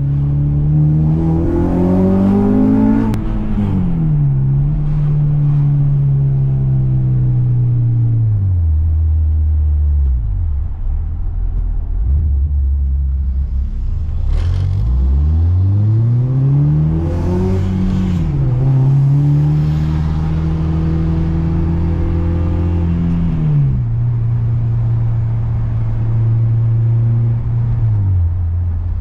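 2005 Acura TSX's 2.4-litre four-cylinder breathing through a PLM header, no catalytic converter and a 3-inch exhaust with dual Magnaflow mufflers, making a deep rumble. It revs up twice with rising pitch, each climb ending in a sudden drop. Between the climbs it holds steady, sinking to a low rumble in the middle and stepping down twice near the end.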